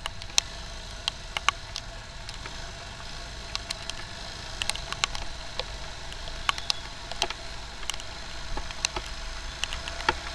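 Rain: irregular sharp ticks of raindrops striking close by, heard over a steady low rumble of the moving motorcycle.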